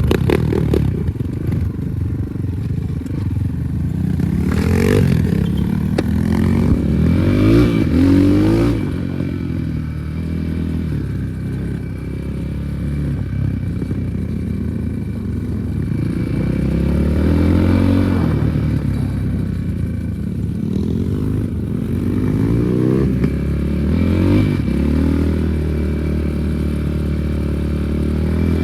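Enduro motorcycle engine running as it is ridden, revving up and down in pitch several times, loudest about five to eight seconds in.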